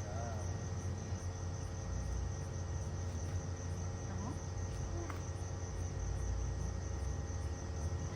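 Crickets chirping in a steady, high-pitched night chorus over a low, steady rumble.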